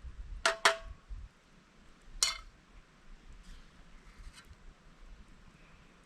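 Hard tableware knocking together: a quick double clink about half a second in and a single clink a little after two seconds, each with a brief ring.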